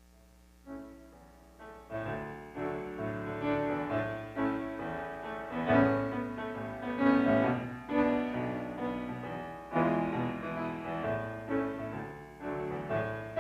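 Piano playing the introduction to a gospel song, coming in about a second in, with struck notes and chords building in loudness.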